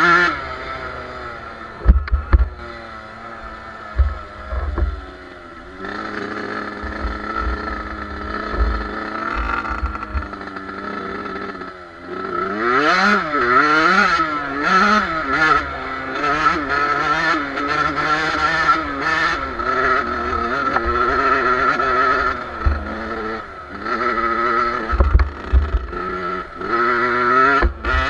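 Two-stroke motocross bike engine revving up and down as it is ridden off-road, the pitch rising and falling repeatedly, with heavy low thumps on the microphone a few times.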